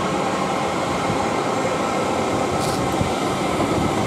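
A double-unit South Western Railway Desiro electric multiple unit passing on the main line: a steady rumble of wheels on rail, with a brief hiss about two and a half seconds in.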